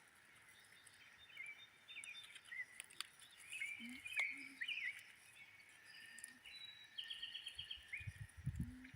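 Several wild birds chirping and calling, with a quick trill about seven seconds in, over a faint steady high hiss of swamp background.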